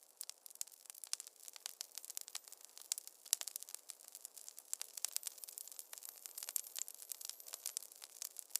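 Wood fire crackling in a fireplace: dense, irregular sharp pops and snaps over a faint steady hiss, with no low rumble.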